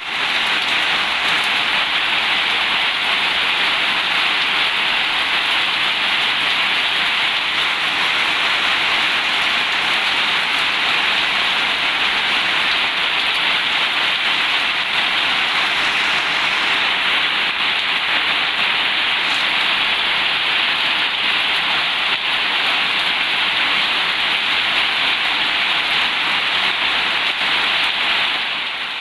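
Heavy rain falling in a steady, dense hiss, with no thunder. The rain eases slightly near the end.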